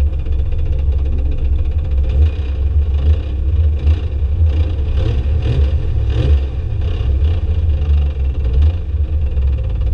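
Drift car engine running and revving hard, a heavy low rumble with a string of sharp, rapid pulses through the middle.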